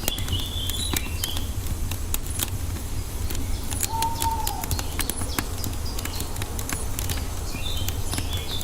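Wood fire crackling with frequent sharp pops over a steady low rumble, with birds chirping at the start and again near the end, and a single short whistled note about four seconds in.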